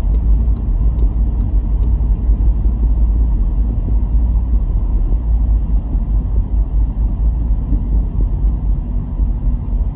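A car driving along: steady low road and engine rumble, with a few faint ticks.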